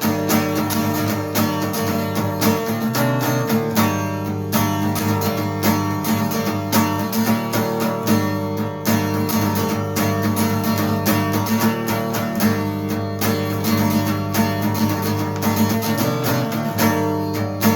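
Instrumental break of a live song: acoustic guitar strummed in a steady rhythm, with no singing.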